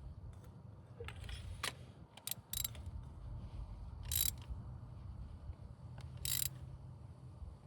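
Ratchet wrench clicking in a few short, irregular strokes as a spark plug is tightened down snug.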